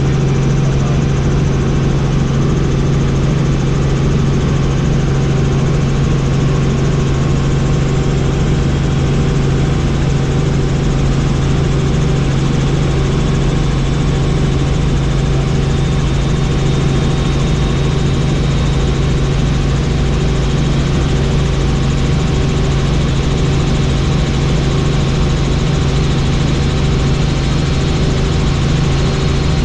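Helicopter running with a loud, unchanging drone, dominated by a strong low hum with steady higher tones above it.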